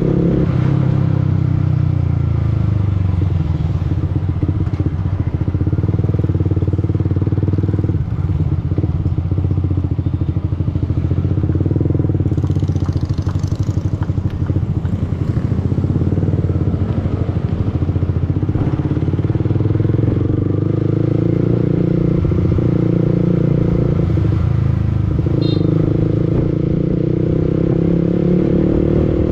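Yamaha R15 V2 motorcycle's single-cylinder four-stroke engine running steadily under way, heard from on the bike, its pitch rising near the end as it speeds up.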